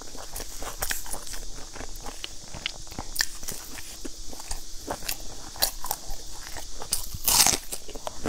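Close-up chewing and crunching of crisp, charred bread-like food, a quick run of small crackly crunches, with one louder crunch about seven seconds in.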